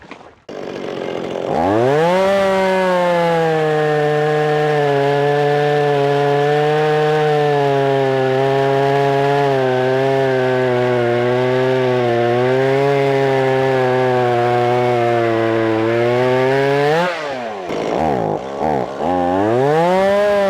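Stihl MS170 two-stroke chainsaw revving up and cutting through a tree limb at a steady high speed, its pitch wavering slightly under load. Near the end it flares up, drops back with a few throttle blips, then revs up again to go on cutting.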